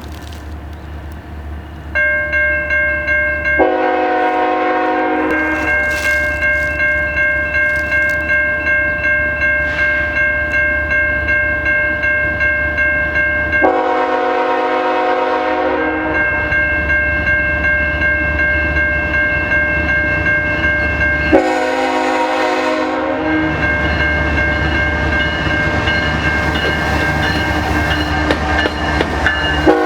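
Two CN GE ES44AC diesel locomotives pulling a freight train past at slow speed, their engines giving a steady low rumble. The lead unit sounds its air horn in blasts of about two seconds, three times and once more at the very end, over a steadily ringing crossing bell that starts about two seconds in.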